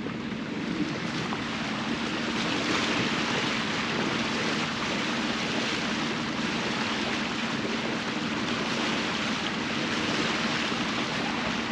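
Water rushing steadily along a sailboat's hull as it motors through calm water, with the even hum of the boat's engine running underneath.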